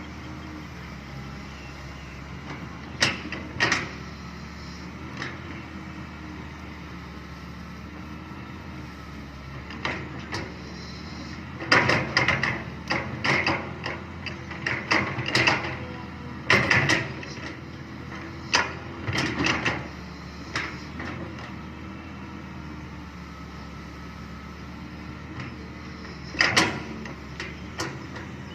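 Hydraulic excavator's diesel engine running steadily, with irregular bursts of loud clanking from the working machine, busiest through the middle and again near the end.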